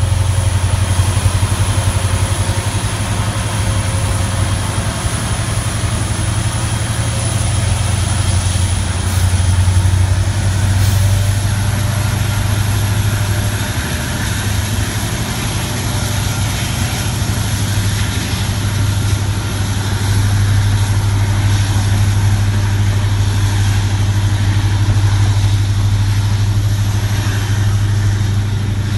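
A stationary railway locomotive running with a steady, loud low hum, unchanged throughout, along with a faint high whine.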